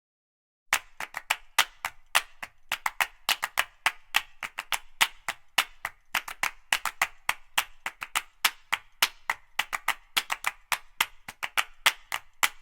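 A rapid, irregular series of sharp taps or clicks, several a second, starting after a moment of silence.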